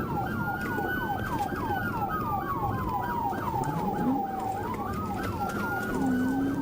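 Police car sirens sounding during a pursuit: a slow wail rising and falling, overlaid by a rapid yelp repeating about four times a second.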